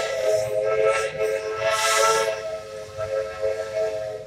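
Port Huron three-chime steam whistle on the Myron H steam locomotive blowing one long blast: a steady three-note chord with a hiss of steam that swells twice, cutting off near the end.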